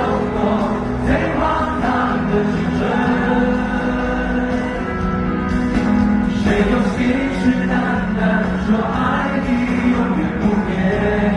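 Live pop concert music: a band playing with several voices singing together.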